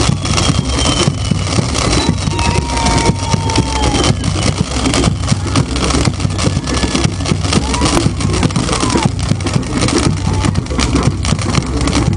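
Large bonfire burning: a steady low roar with dense, irregular crackling, and a few faint sliding whistle-like tones over it.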